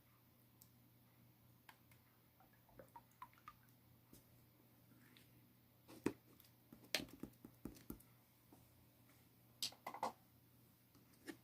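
Chewy glitter slime being pressed and pulled by hand, giving faint sticky clicks and small pops in scattered clusters, busiest in the second half.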